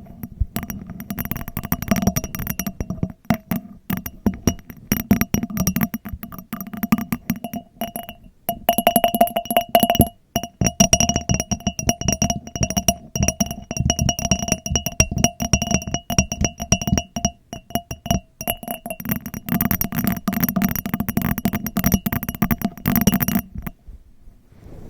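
Fast, steady tapping on glass, each tap setting the glass ringing so that its clear tones hang on between taps. There are a few short pauses, and it stops near the end.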